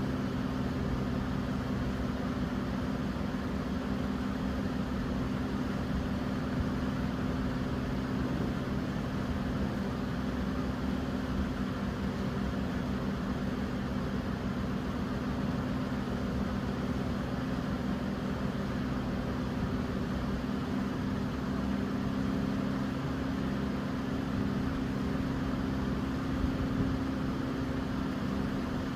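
Electric fan running steadily: an even rush of air with a low, constant hum from the motor.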